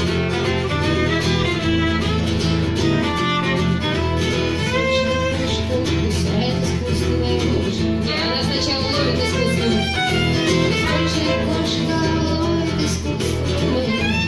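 Instrumental passage of a folk-rock song played live on violin and strummed acoustic guitar, the violin carrying the melody over steady guitar chords.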